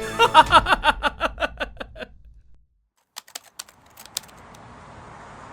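A man laughing, a quick run of 'ha' pulses that fades out after about two seconds. Then a short silence, a few sharp clicks, and a faint steady hiss.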